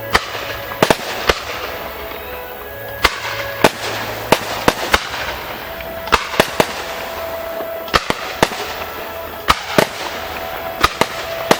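Fireworks bursting at close range: an irregular run of sharp, loud bangs, a couple of dozen in all, sometimes several in quick succession, with steady music playing underneath.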